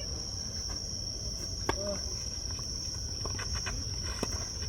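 Steady high-pitched insect drone, cicadas or crickets, running without a break. A few short sharp knocks stand out over it, the clearest a little under two seconds in and again about four seconds in.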